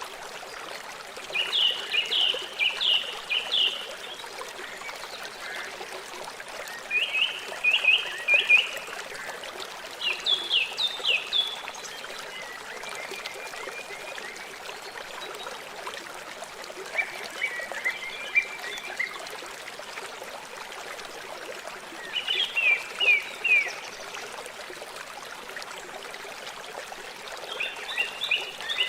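A river flowing with a steady rushing hiss. About every five seconds a series of short, quick chirps, roughly five a second, sounds over it for a second or two; these chirps are the loudest thing.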